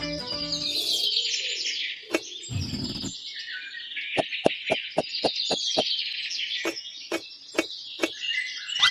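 Birds chirping and singing outdoors. A series of sharp taps joins in midway, about three a second at first and then more spread out.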